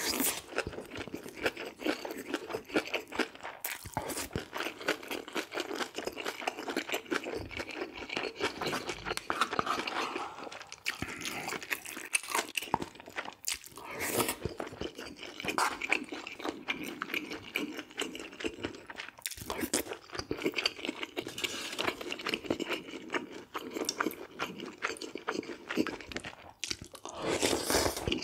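Close-miked eating: steady chewing and crunching of food in the mouth, a dense run of small wet clicks with a few louder bites.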